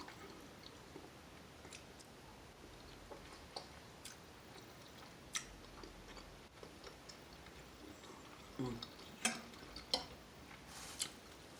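Quiet close-up chewing, with scattered sharp mouth clicks and smacks, a few louder ones near the end.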